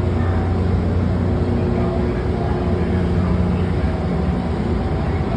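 Diesel locomotive engine running steadily, a low droning hum.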